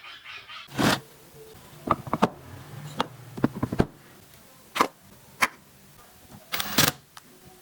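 Scattered sharp knocks and clicks, a dozen or so at irregular spacing, with two short scraping noises, one about a second in and one near the end.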